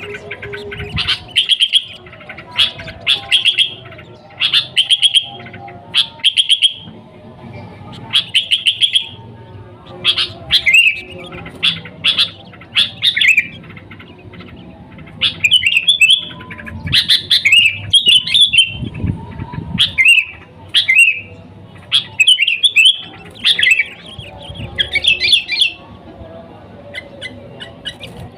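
Sooty-headed bulbul (kutilang) singing loudly and without a break: short bursts of chirps and quick warbled phrases, about one a second.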